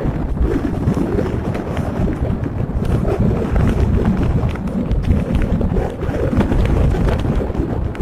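Wind rumbling over the microphone on a moving tour boat, a steady, loud, gusty noise.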